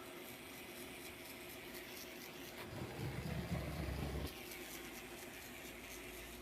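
Small rechargeable electric motor of a Mattel Sizzlers Ground Hog toy bulldozer running its tracks, with a light high whirr and fine ticking, a little stiff from the cold. A low rumbling bump comes from about three to four seconds in.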